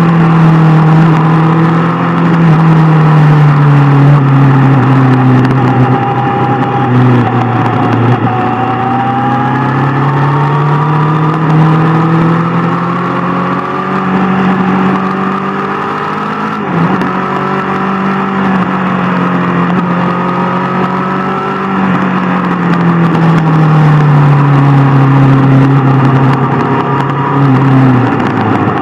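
Inline-four sportbike engine running under way, its pitch slowly rising and falling several times with throttle, over a steady rush of wind and road noise.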